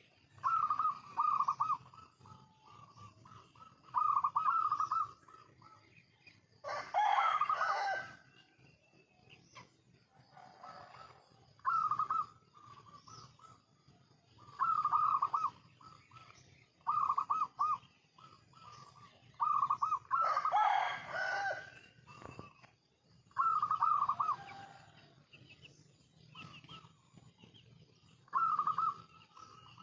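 Zebra doves (perkutut) cooing in short, melodious phrases, repeated every few seconds. Twice a louder, harsher call lasting over a second cuts in.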